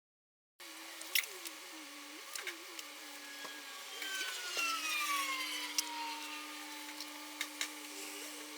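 Workshop tool sounds: a steady hum with a whine that falls in pitch over a few seconds, and scattered sharp clicks and taps.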